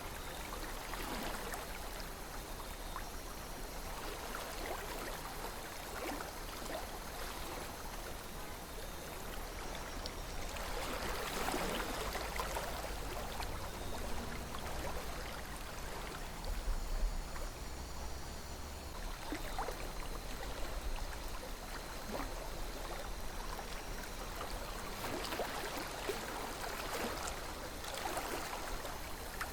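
Calm river flowing, a steady gentle rush of water that swells and eases slightly, with a brief low rumble about seventeen seconds in.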